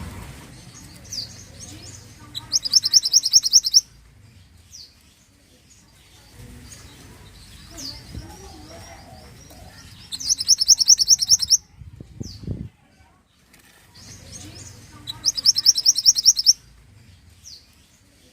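Songbird known in Indonesia as mantenan singing: three bouts of a fast, high trill, each just over a second long and about six seconds apart, with single short high chirps in between.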